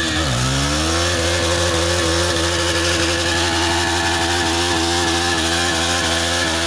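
KTM Duke 250's single-cylinder engine and exhaust: revs dip sharply right at the start, climb back within about a second, then hold steady at high rpm.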